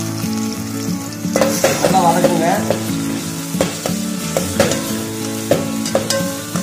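Ginger-garlic paste sizzling in hot oil with sliced onions in a metal pot while a steel spoon stirs it, with a few sharp clicks and scrapes of the spoon against the pot.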